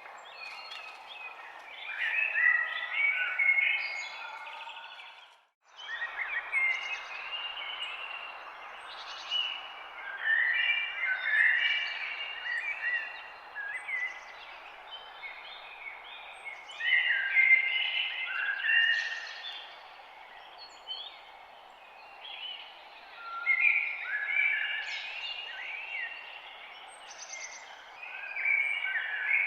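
Songbirds singing and chirping in repeated bouts of warbling phrases over a steady background hiss. The sound cuts out completely for a moment about five seconds in, then resumes.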